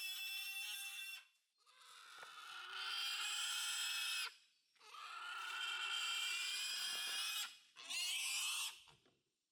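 Wild boar piglets squealing: a run of long, high-pitched squeals, each held for two or three seconds with short breaks between them, the last one shorter.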